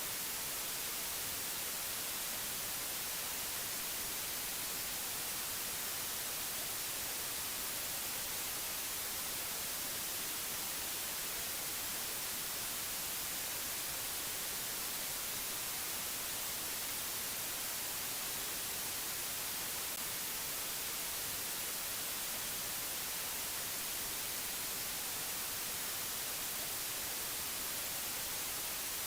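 Steady, unchanging hiss of white noise, brighter in the high treble, with no other sound in it.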